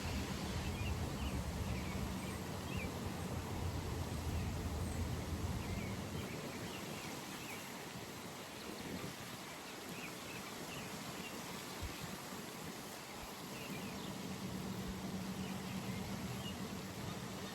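Early-morning pond ambience: a steady outdoor hiss with small birds chirping briefly here and there. A low hum, like a distant engine, fills the first six seconds, fades, and comes back near the end.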